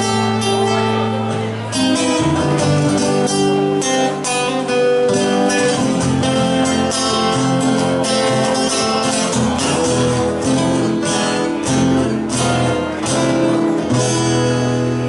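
Two guitars playing a Spanish-style instrumental: a rhythm guitar strumming chords under a lead guitar picking quick runs of notes.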